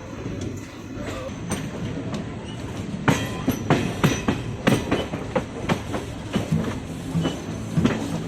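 Passenger express train running on the rails, steady rumble, then from about three seconds in a quick run of loud, irregular clickety-clack as the coach wheels pass over rail joints.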